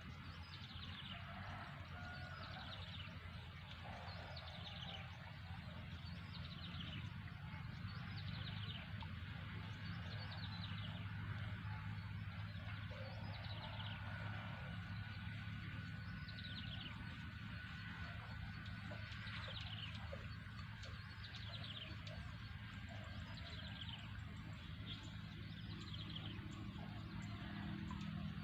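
An animal's short descending call, repeated about every two seconds, over a steady low hum.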